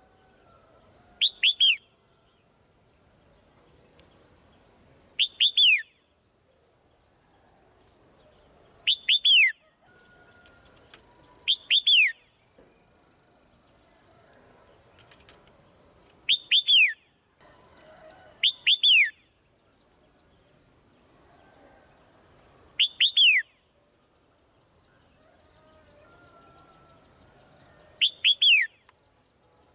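Swallows calling: a quick run of two or three chirps, each sliding down in pitch, repeated about every three to four seconds, eight times, over a steady high hiss.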